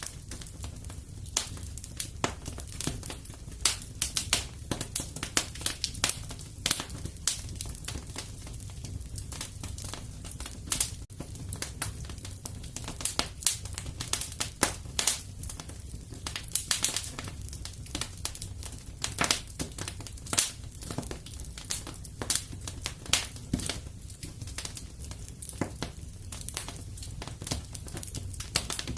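Wood fire burning in a fireplace: many irregular sharp crackles and pops, several a second, over a steady low rumble.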